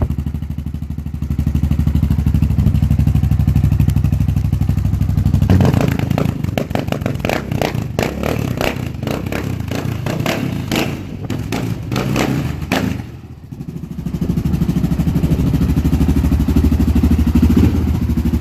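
Honda TRX700XX ATV's single-cylinder engine idling through a Big Gun aftermarket exhaust, then blipped hard on the throttle many times over several seconds, then settling back to a steady idle.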